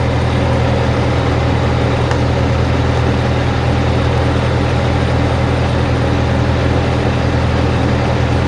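Heavy truck's engine idling, a loud, steady low drone that does not change.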